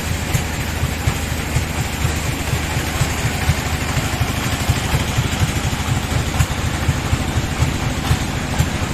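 Sawmill bandsaw machinery running steadily, with a fast, even low pulse under a continuous mechanical drone.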